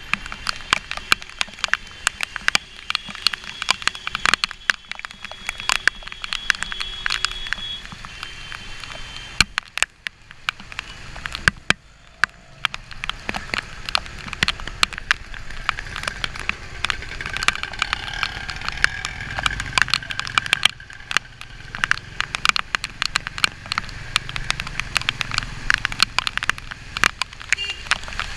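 Raindrops striking a GoPro camera housing on a moving motorcycle, a dense run of sharp ticks, over the low hum of the motorcycle engine and road traffic.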